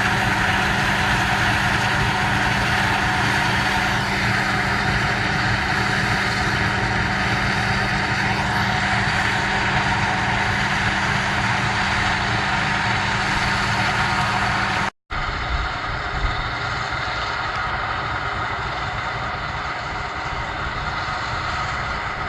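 John Deere 9660 STS combine running steadily during corn harvest: a constant machine drone with a steady low hum. About fifteen seconds in the sound cuts off for an instant, then the machine noise carries on a little quieter and without the hum.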